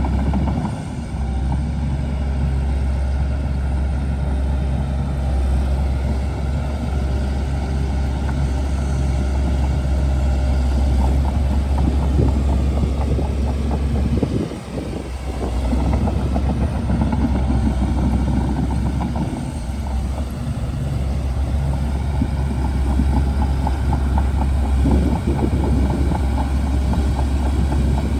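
Shantui DH17C2 bulldozer's diesel engine running steadily and loudly, with a short dip in sound about halfway through.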